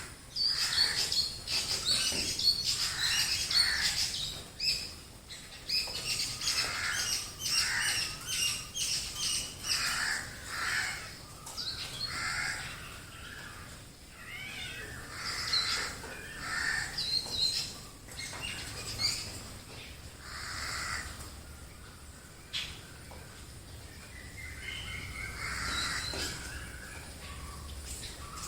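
Mixed chorus of wild birds calling over one another, with crows cawing among them. The calls come thickest for the first ten seconds or so, then thin out.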